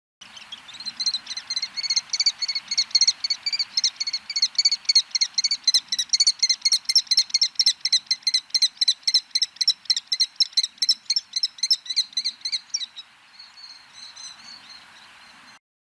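A bird of prey calling: a fast, even string of sharp, high notes at about five a second, kept up for some thirteen seconds. It then trails off into a few fainter notes.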